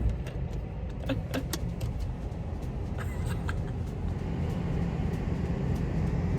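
Car engine idling, a steady low rumble heard from inside the cabin, with a few small clicks and knocks about a second in and again about three seconds in.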